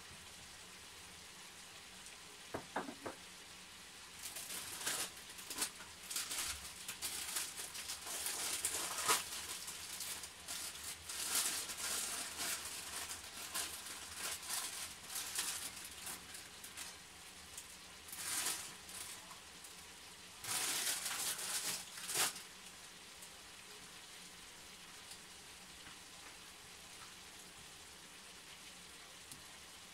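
Chicken frying in a pan under sliced onions and carrots, sizzling and crackling in uneven spells for most of the time, then settling to a quieter hiss for the last several seconds.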